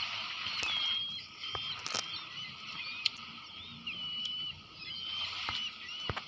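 Several birds calling at once with short, high chirping and peeping calls, some rising and some falling, with a few sharp clicks among them.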